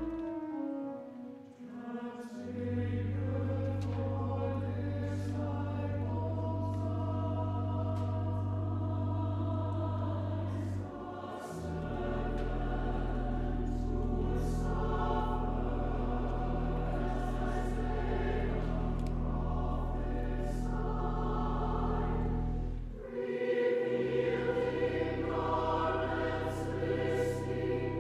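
Church choir singing the offertory anthem over long, held low bass notes, which shift to a new note every ten seconds or so.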